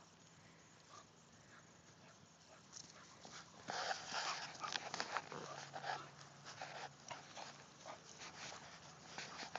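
Small terrier making dog noises close to the microphone while playing: a run of short bursts, like growls, starting about four seconds in and loudest just after they begin.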